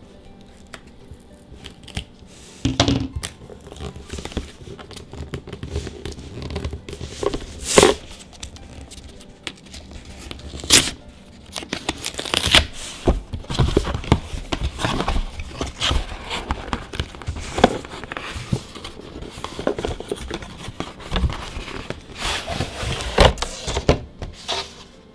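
Foil booster-pack wrapper being torn open and crinkled by hand: irregular rustling with sharp crackles, loudest about 8 s, 11 s and 23 s in.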